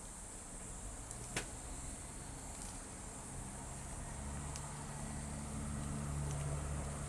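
Insects chirring steadily at high pitch, with a single sharp snap from the wood campfire about a second and a half in and a few fainter ticks after. A low droning hum with a steady pitch swells up from about halfway.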